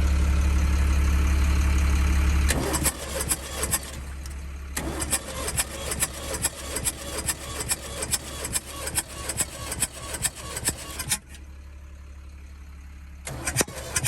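Ford 550 backhoe's three-cylinder diesel being cranked on the starter without running: a loud steady hum for the first couple of seconds, then uneven puffing and knocking, a short pause about eleven seconds in, then cranking again near the end. Compression is blowing back out of the intake, which the mechanic first takes for a lost valve; the cause turned out to be a blown head gasket between cylinders two and three.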